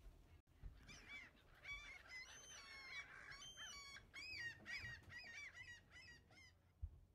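Faint bird calls: a quick run of short honking calls, some overlapping, lasting several seconds and stopping just before the end. A single low thump follows near the end.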